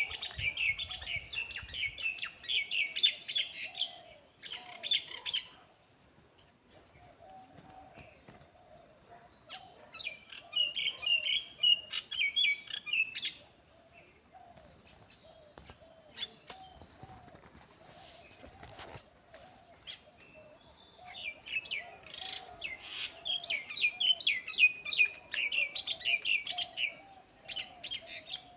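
Birds chirping in fast, dense bouts of a few seconds each, three main bouts with quieter gaps between, over a faint wavering lower sound that runs throughout.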